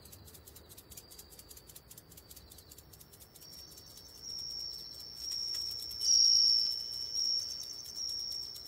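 Crickets chirping: a high, rapidly pulsing trill that grows louder about four seconds in.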